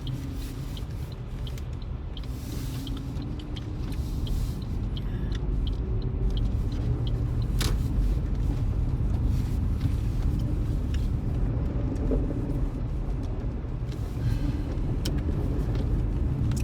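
Car cabin noise while driving on a snow-covered road: a steady low rumble of engine and tyres that grows louder about four seconds in. Light, regular ticking runs over the first several seconds, and a single sharp click comes near the middle.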